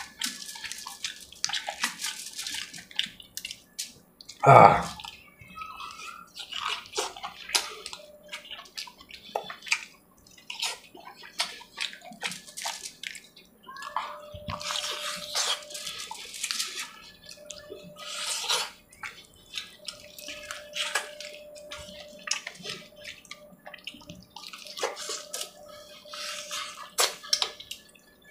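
Close-up wet chewing and lip-smacking of a person eating curry-soaked puri and chicken by hand: a long run of short, wet smacks and clicks. One brief louder sound stands out about four seconds in.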